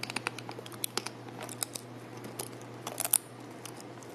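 A person chewing a stale nacho chip close to the microphone: irregular soft clicks and crackles rather than a clean crunch, with the loudest crackles about three seconds in. The chip is stale and limp, 'like chewing a wet rag'.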